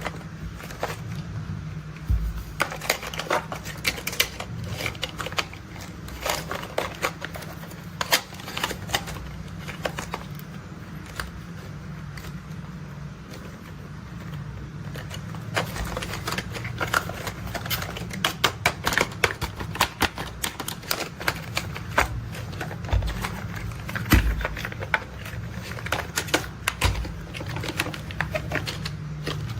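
Plastic toy construction vehicles being handled, giving a run of irregular clicks and taps, busier in the second half, over a steady low hum.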